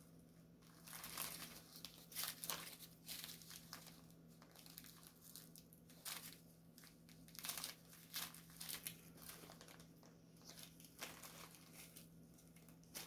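Small plastic bags of diamond-painting drills being handled and crinkled, in short rustles on and off with quiet gaps between, over a faint steady hum.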